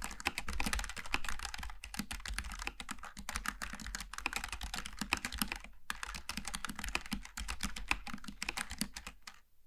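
Continuous fast typing on a Logitech G915 TKL low-profile mechanical keyboard with tactile switches: a dense, uneven patter of key clicks, with a brief pause a little past halfway and the typing dying away just before the end.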